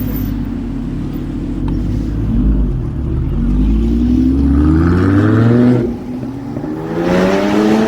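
Supercar engine at a steady low note, then accelerating hard with the revs climbing for about three seconds. An upshift drops the revs just before six seconds in, they climb again, and they fall sharply near the end.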